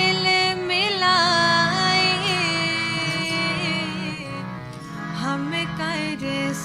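Sikh Gurbani kirtan: a singer draws out a wavering, ornamented melodic line over a steady drone.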